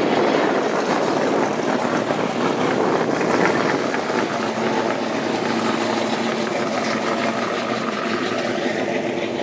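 An engine running steadily over a noisy background, with a low pitched hum that grows clearer in the second half.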